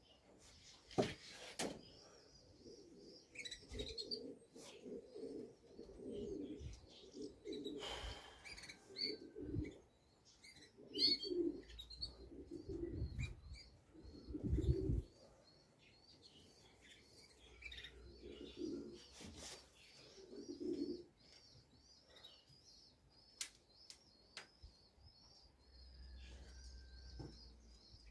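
Pigeons cooing in repeated short bouts, with a small bird chirping steadily high above them and a few sharp knocks.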